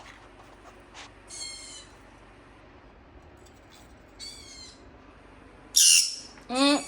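Green-cheeked conure calling: two short chirps a few seconds apart, then a loud harsh squawk near the end followed by one more call.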